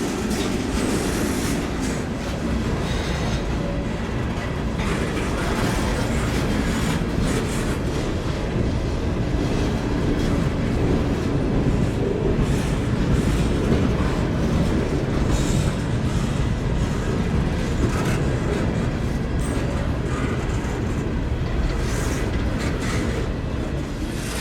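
Norfolk Southern freight train's cars rolling past at steady speed: continuous wheel-on-rail noise with repeated clicks of wheels passing over rail joints.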